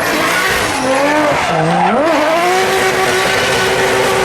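Drift car's engine revving up and down, then rising about two seconds in and held at steady high revs, over loud tyre squeal as the car slides.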